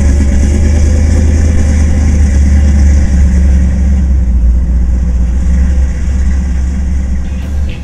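The 1936 Dodge street rod's engine running steadily, with a strong low rumble, fading out near the end.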